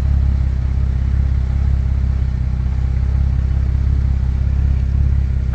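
Nissan 350Z's V6 engine running steadily with a low, even rumble.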